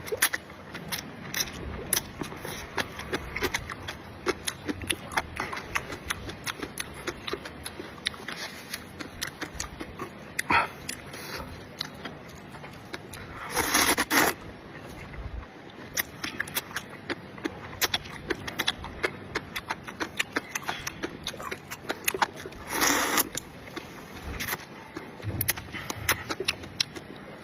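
Close-up eating sounds: chewing and biting into meat, with a dense run of small wet clicks and smacks. Twice, about halfway through and again some nine seconds later, a louder noisy slurp or breath lasts about a second.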